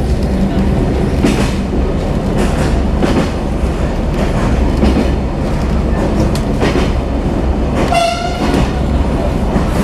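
Passenger train running along the track, heard from inside the carriage: a steady rumble with rail clatter. A single short horn blast sounds about eight seconds in.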